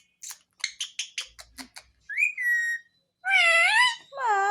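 Indian ringneck parakeet calling: a quick run of about a dozen short high chirps, then a short rising call and two longer drawn-out calls whose pitch wavers and dips, the last ones the loudest.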